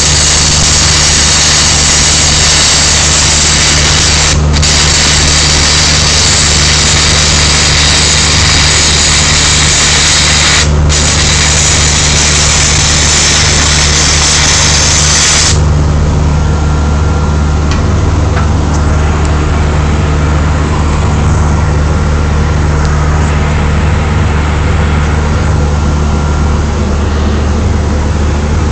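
Shielded metal arc welding with a 6010 rod at about 120–125 amps: the arc crackles and hisses steadily, breaks off briefly twice, then stops about halfway through. A steady engine hum runs underneath and is left alone after the arc stops.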